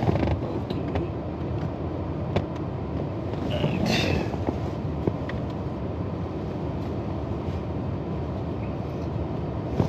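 Heavy rain on a car's roof and body, heard from inside the cabin as a steady rush with a few sharper ticks of drops.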